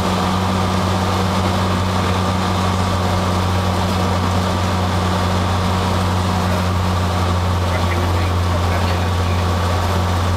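Cessna 182's piston engine and propeller running steadily: a constant low drone with an even rushing noise over it.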